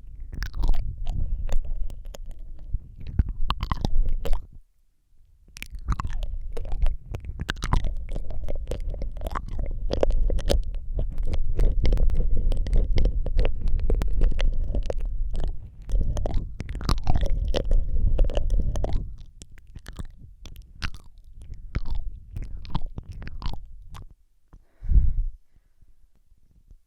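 ASMR mouth sounds made close to the microphone: rapid wet clicks, smacks and licking noises over a low rumble. There is a brief pause about five seconds in, and the sounds thin out to scattered clicks near the end.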